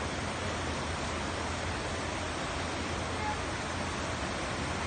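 Steady rushing of floodwater, an even hiss with no breaks.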